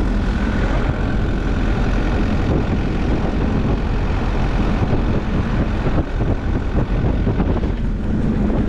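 Steady, loud rumble of road and wind noise from a moving vehicle.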